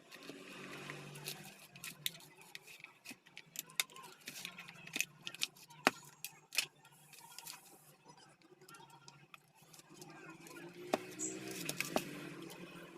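Tools and small metal parts being handled during a repair: scattered clicks and light taps over a faint low hum.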